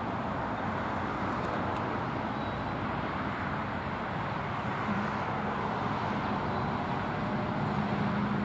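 Steady road traffic noise, with a low engine hum joining about five seconds in.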